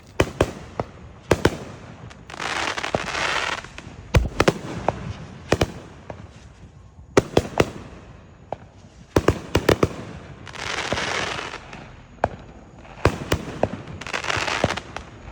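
Backyard fireworks going off: clusters of sharp bangs and pops, with three stretches of hissing crackle about a second long each.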